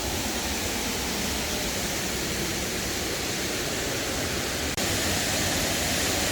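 Waterfall rushing steadily, a full flow of water after heavy rain; it gets a little louder about five seconds in.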